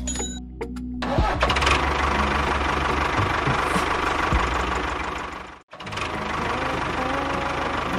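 A small engine running with a knocking rattle. It starts about a second in, cuts out abruptly for a moment near the end, then runs on.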